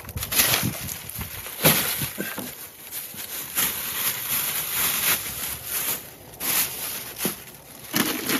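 Plastic food packaging crinkling and rustling as packages are handled and lifted out of a portable fridge, with a few sharp knocks and clicks.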